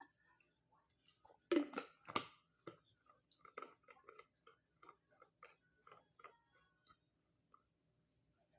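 A run of short clicks and knocks, about three a second, loudest a second or two in and dying away after about six seconds.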